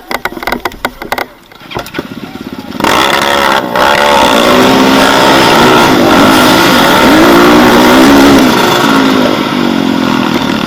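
A few clicks and knocks, then about three seconds in an off-road motorcycle engine starts up loudly and revs up and down unevenly.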